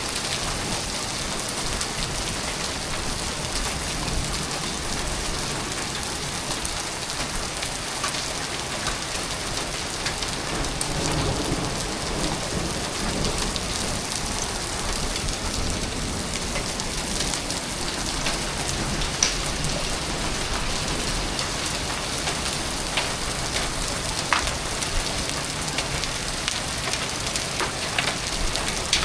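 Hail and heavy rain pelting down, a steady dense patter with a few sharper clicks of single hailstones striking hard surfaces.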